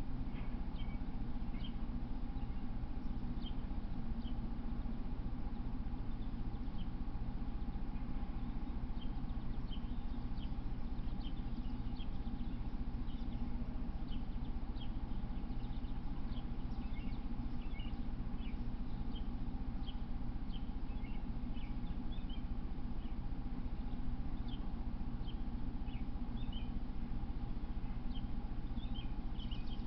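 Small birds chirping in short, high notes, scattered at first and more frequent in the second half, over a steady low hum.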